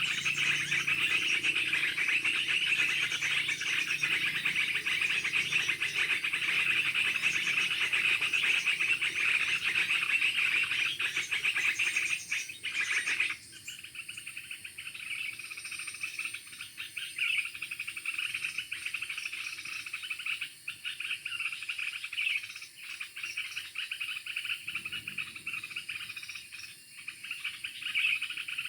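A steady chorus of insects and frogs, dense and continuous, with some bird calls mixed in. A fuller background noise under it drops away suddenly about halfway through.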